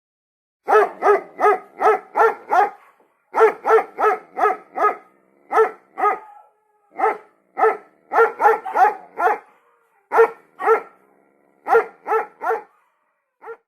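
A dog barking over and over, short sharp barks in quick runs of three to six, about two a second, with brief pauses between the runs.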